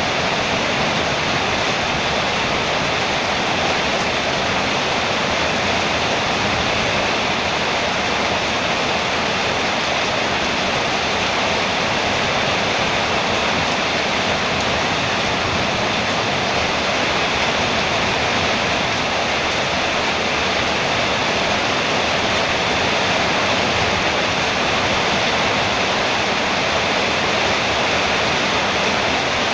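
Rain falling steadily on a metal roof: a constant, even hiss with no breaks or separate impacts.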